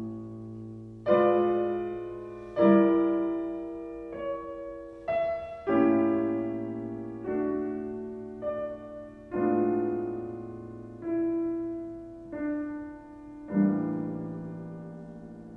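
Slow, gentle solo piano music: chords struck one at a time about every second or so, each left to ring and fade before the next.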